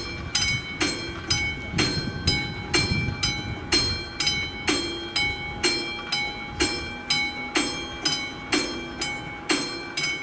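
Level-crossing warning bell, the classic bell of a VÚD crossing signal, striking steadily about twice a second with a ringing tone. A low train rumble runs under it in the first few seconds and then fades.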